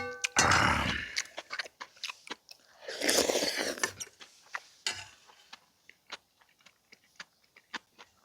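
A person eating rice soup, with close-up chewing and mouth sounds. There are many small clicks and smacks, and two louder noisy slurps or gulps, about half a second in and about three seconds in.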